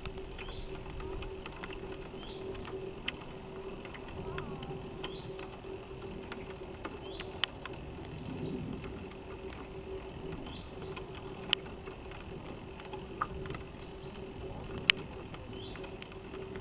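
Sound from the onboard camera of a North Wind 360 RC sailboat: a water wash along the small hull under a steady electrical hum, with a handful of sharp clicks and faint high chirps every second or so.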